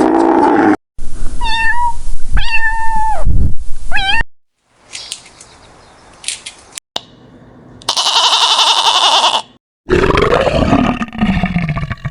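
A string of short animal-call clips joined by abrupt cuts. The clearest is a domestic cat meowing three times, starting about a second in. It is surrounded by a low drawn-out call at the start, a loud high-pitched call around eight seconds, and a low call falling in pitch near the end.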